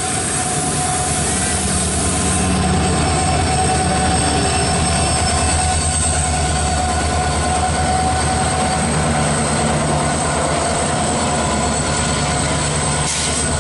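Indian Railways passenger train, hauled by a WDP4 diesel locomotive, running past a station platform: a steady diesel engine drone with the rumble of the rolling coaches.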